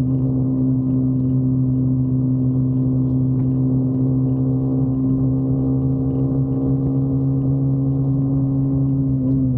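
Motorcycle engine running at a steady speed, a constant even drone, with its pitch starting to drop right at the end as the throttle eases.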